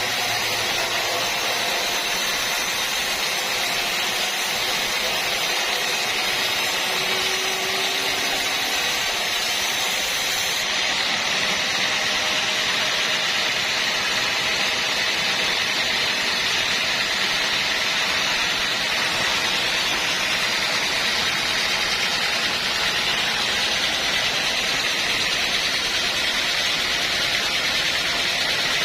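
Steady machinery running noise with an even hiss, no distinct strokes or cuts. The highest part of the hiss drops away abruptly about ten seconds in.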